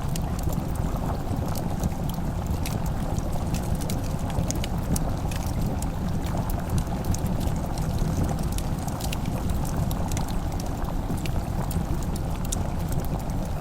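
Wood fire crackling in a fireplace: irregular sharp pops and ticks over a steady low rumble.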